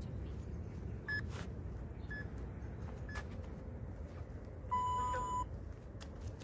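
Digital interval timer beeping: three short high beeps about a second apart, then one longer, lower beep about five seconds in.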